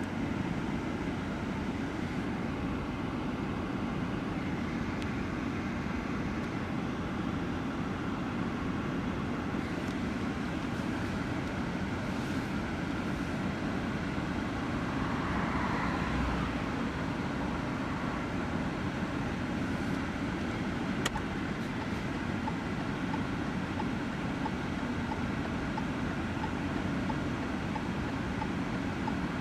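Steady car running noise, an even low rumble with hiss, with a slight swell about halfway through and a single click a few seconds later.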